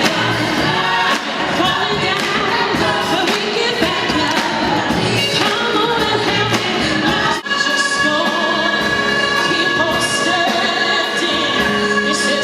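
Live choir singing with orchestra accompaniment, with a brief break about seven seconds in, after which held notes follow.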